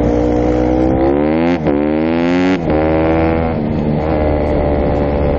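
Dirt bike engine accelerating: its pitch climbs, drops sharply about a second and a half in, climbs again and steps down near the middle, as it shifts up through the gears, then runs steadily.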